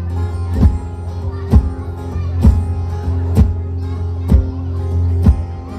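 Live band music with no vocals: guitar chords over a sustained bass tone, with a steady drum beat about once a second.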